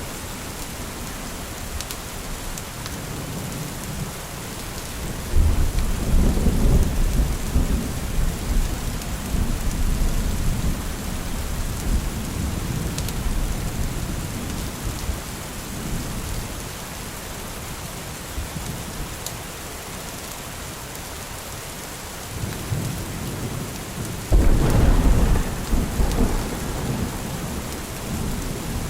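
Steady rain falling, with two long rolls of thunder: one breaks suddenly about five seconds in and rumbles on for several seconds, and a second starts just as suddenly near the end.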